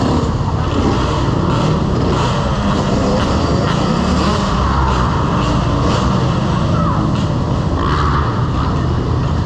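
Motorcycle running steadily while being ridden, with constant loud engine and road noise.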